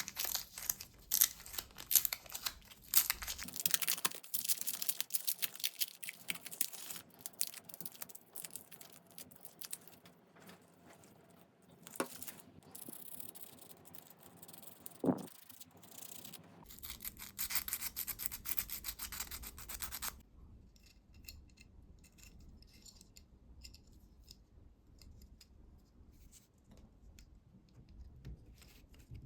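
Rapid hand-rubbing strokes on the knife during restoration, dense and scratchy for about twenty seconds and then stopping suddenly, leaving only faint scattered ticks.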